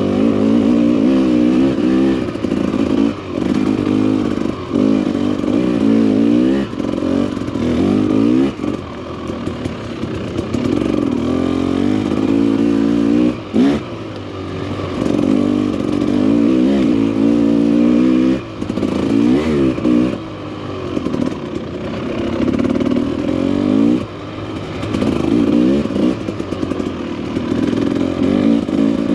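Dirt bike engine running under load on a trail, revving up and down again and again as the throttle is opened and closed, the pitch climbing and falling every second or two, with short drops where the throttle is shut about 13, 18 and 24 seconds in.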